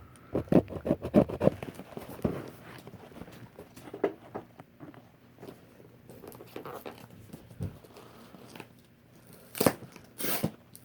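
Packing tape being pulled and torn off a cardboard shipping box, with crinkling and scraping, then two loud rips near the end as the tape gives way.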